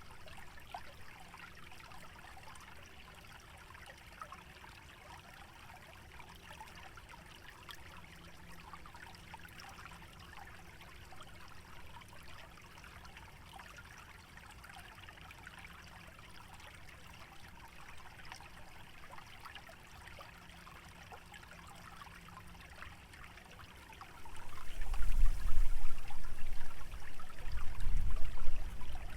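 Small stream trickling steadily. Near the end, gusts of wind buffet the microphone with a loud, deep rumble that comes and goes.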